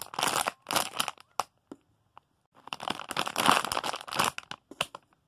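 Plastic crinkling and rustling as squishy toys and their packaging are handled: two short bursts at the start, a pause with a few light clicks, then a longer stretch of crinkling from about two and a half seconds in.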